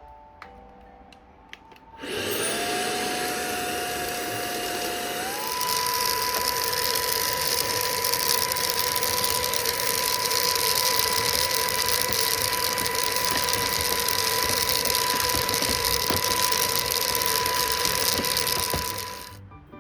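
An electric motor appliance switches on and runs with a loud rushing noise and a whine that rises as it spins up, steps up in pitch a few seconds later, then holds steady. It stops abruptly near the end.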